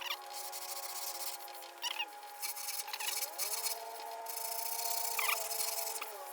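Sanding block rubbing back and forth over hardened body filler on a bus bumper: hand block-sanding, in uneven strokes with a few short squeaks. A few steady tones sound faintly underneath.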